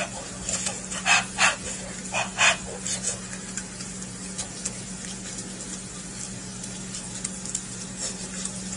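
A dog barking four short times in two quick pairs, about a second in and about two seconds in, over a steady low hum.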